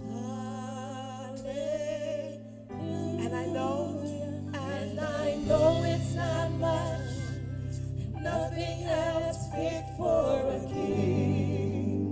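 Gospel worship song: voices singing with vibrato over steady held low chords, with a brief break about a quarter of the way in.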